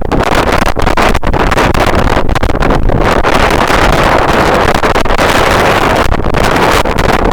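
Strong wind buffeting the microphone: a loud, continuous rush that swells and dips in gusts.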